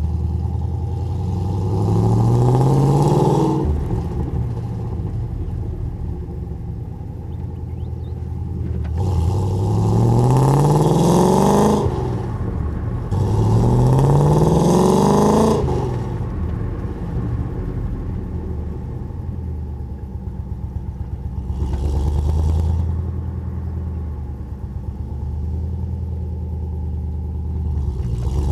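Holden VN Commodore SS V8 exhaust heard from the rear of the car while driving: three times the revs climb steadily under acceleration and then drop off at a gear change, with steady cruising between and a brief swell in engine note near the end.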